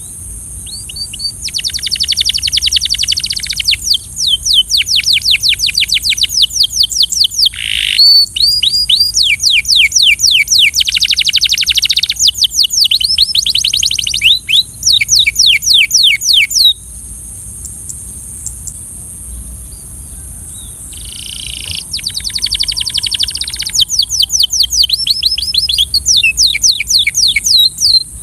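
Canary singing in long rolling trills, each a fast run of repeated down-slurred notes, phrase after phrase. The song breaks off for a few seconds past the middle and then resumes. A steady high-pitched hiss runs underneath.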